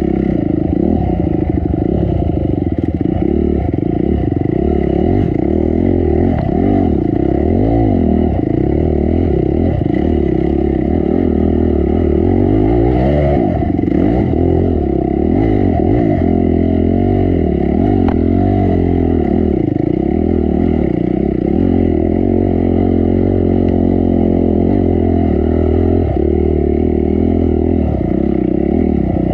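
Honda CRF250 dirt bike's single-cylinder four-stroke engine running under load, its revs rising and falling continually as the bike is ridden over rough trail.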